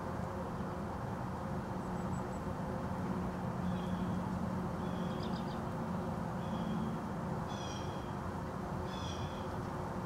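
A bird calling at a feeder: short, nasal calls, about five of them, spaced a second or so apart from about a third of the way in. A steady low hum and rumble runs underneath.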